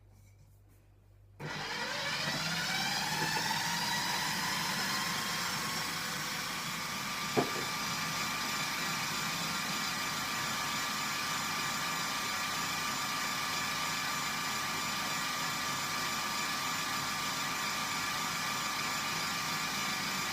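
Food processor motor starting about a second in, its whine rising and settling into steady running as it blends soaked almonds and water into almond milk. One short knock comes partway through.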